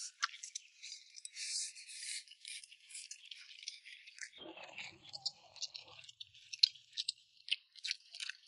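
Close-up eating sounds: chewing, with scattered quick clicks and crackles throughout.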